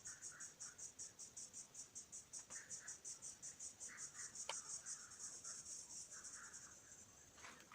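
Cricket chirping faintly in a fast, even, high-pitched pulse of about six pulses a second, with fainter lower chirps and a single sharp click about halfway through.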